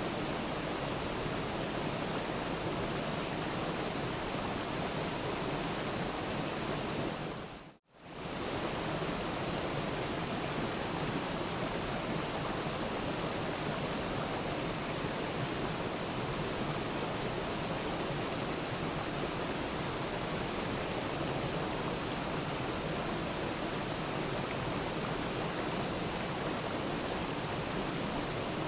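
Waterfall: a steady, even rush of falling water. About eight seconds in it fades out to silence for a moment and comes straight back.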